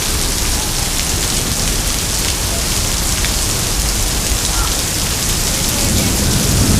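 Heavy rain pouring down, a steady, loud hiss of rain hitting surfaces.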